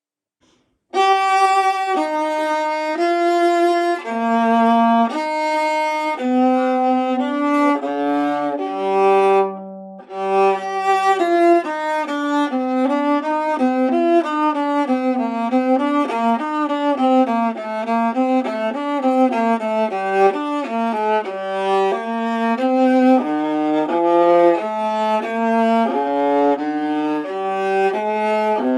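Antique Italian 16-inch viola from Naples, c.1898, labelled Giovanni Pistucci, played solo with the bow: a run of separate melodic notes reaching down to the low C string. It starts about a second in, with a brief break after about ten seconds.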